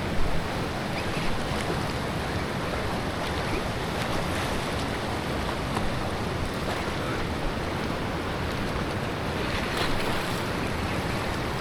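Steady rushing of river water, with wind on the microphone.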